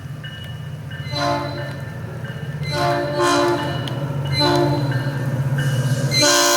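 SunRail commuter train's air horn sounding three blasts, then a longer, louder one starting near the end, over a steady low drone.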